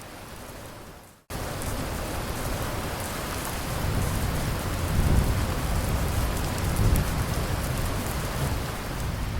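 Steady heavy rain that fades out about a second in and then cuts straight back in louder. Low rolls of thunder rumble under it around the middle and again near the end.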